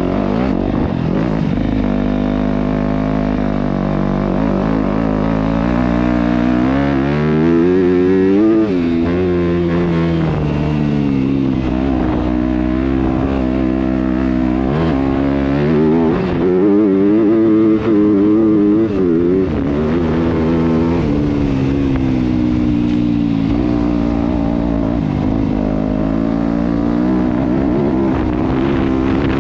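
Yamaha YZ250F dirt bike's single-cylinder four-stroke engine running hard under load, its revs climbing and dropping again and again as the rider accelerates, shifts and backs off along a trail.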